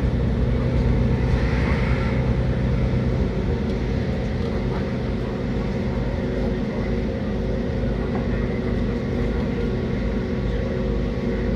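Running noise inside a moving passenger train carriage: a steady rumble of wheels on the track under a low hum with a few steady tones, a little quieter from about three seconds in.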